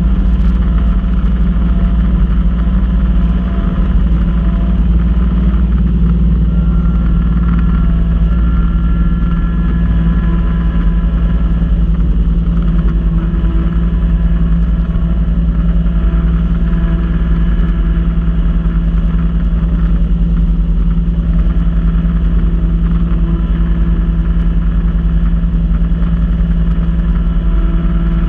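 Kubota B2650 tractor's three-cylinder diesel engine running at a steady speed.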